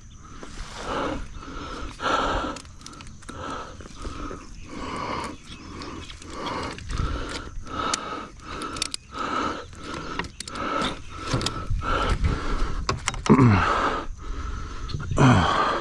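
Fishing reel cranked steadily, about two turns a second, while a big northern snakehead is reeled in. Near the end come two short wordless groans from the angler.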